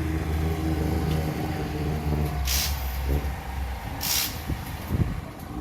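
Rally car engine running with a low, steady note that weakens about halfway through, cut by three short, sharp hisses about a second and a half apart.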